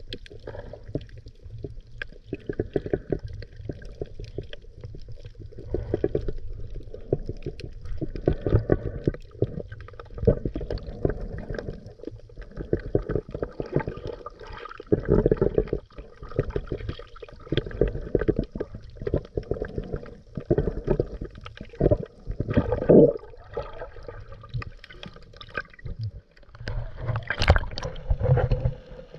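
Scuba diver's exhaled bubbles gurgling out of the regulator, heard underwater through the camera housing. The bubbling comes in surges of a second or two, every few seconds, with a fainter hiss between them.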